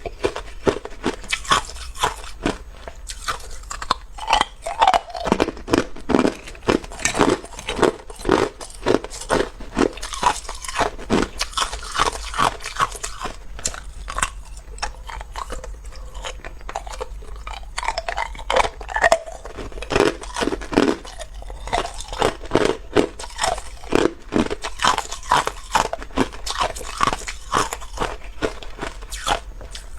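Hard ice cubes being bitten and chewed: rapid, sharp crunches, several a second, which thin out for a few seconds around the middle before picking up again.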